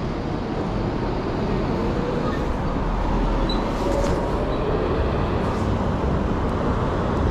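Steady city street traffic noise: a continuous even rumble and hiss of passing vehicles, with no distinct single event standing out.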